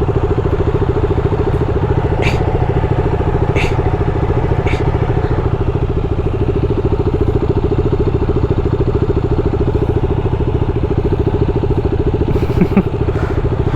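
Triumph Daytona 675 sport bike's inline-three engine running at a steady pitch while ridden, its exhaust pulsing evenly.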